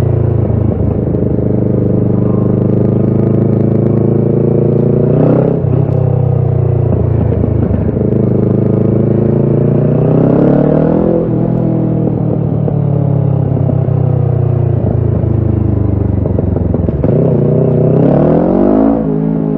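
Kawasaki Ninja 650's parallel-twin engine running through a Shark SRC-4 full exhaust system under way. The revs climb and fall back sharply three times, about 5, 11 and 19 seconds in, holding steadier in between.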